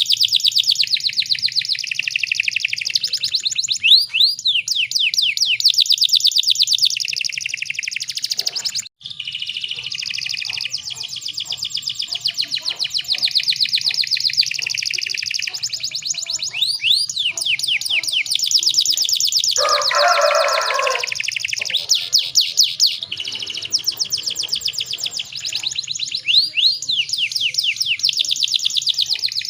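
Canary, presented as a female in breeding condition calling to males, chirping and singing in fast, dense, high-pitched trills almost without pause. There is a brief break about nine seconds in and a short, lower, rougher call around twenty seconds in.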